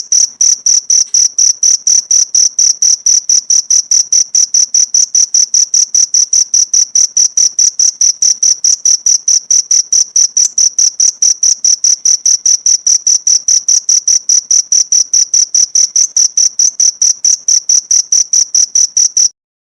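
Cricket chirping: an even, rapid train of high chirps, about five a second, that cuts off suddenly near the end. A recorded cricket track used as a tutor sound for songbirds.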